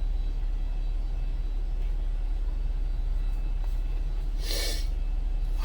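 Steady low rumble, with a short burst of hiss about four and a half seconds in.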